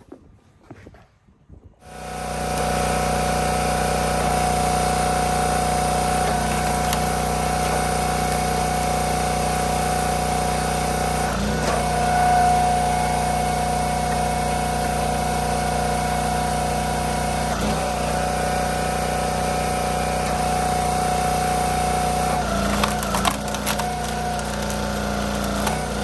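Chainsaw that starts up about two seconds in and then runs at a steady high speed while cutting wood, its pitch shifting near the end.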